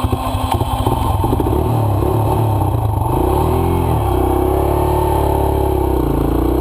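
Dirt bike's single-cylinder four-stroke engine running just after starting up, idling with one brief throttle blip, rising and falling in pitch, about three and a half seconds in.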